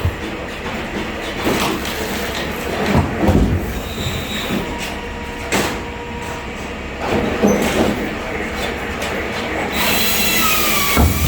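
A machine running steadily, with irregular knocks and, near the end, high squealing glides.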